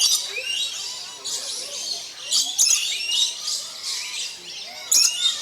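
A flock of lories and lorikeets chattering, with many overlapping high chirps and short rising calls. Louder shrill screeches break out at the start, about two and a half seconds in, and near the end.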